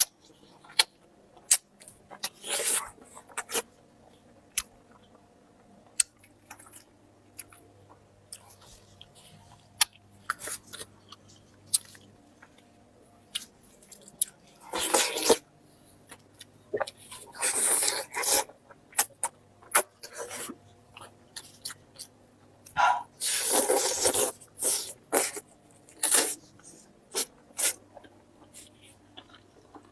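Close-miked eating of chicken: wet chewing and mouth clicks, with several longer, louder noisy bursts scattered through.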